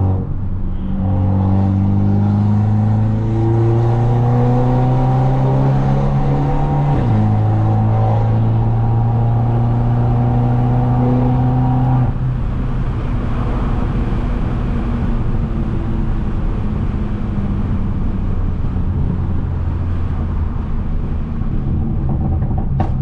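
Turbocharged Mercedes-Benz C250 with a straight-piped exhaust under gentle acceleration: the engine note climbs slowly, drops once about seven seconds in as it shifts up, climbs again, then about twelve seconds in settles into a rougher, steadier drone as the car cruises.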